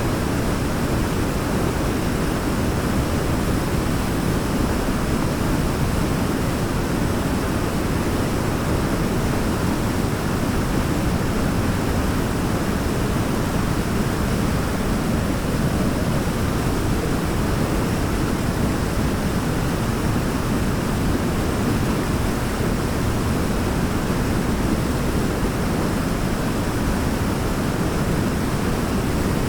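Waterfall rushing steadily: an even, deep rush of falling water with no breaks or changes.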